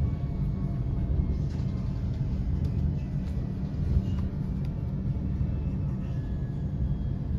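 Steady low rumble of an Alstom regional train running along the track, heard from inside the passenger cabin, with a few faint clicks and one sharper knock about four seconds in.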